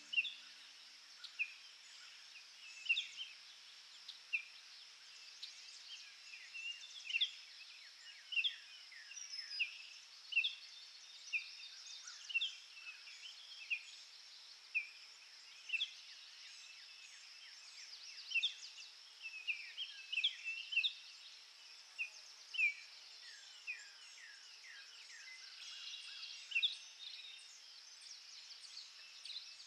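Small birds chirping outdoors: many short, sharp, high calls come irregularly, several a second at the busiest, over a steady high-pitched hiss.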